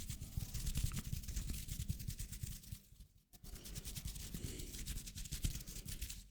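Hands rubbing and crackling close to the microphone, a dense run of rapid crackles in two stretches with a brief pause about three seconds in.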